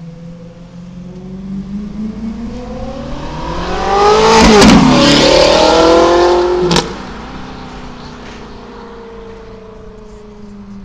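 Ferrari F430's 4.3-litre V8 through a de-catted race exhaust, accelerating hard past with a rising engine note. It is loudest in the middle, then cuts off abruptly about seven seconds in, and the note falls away as the car goes on.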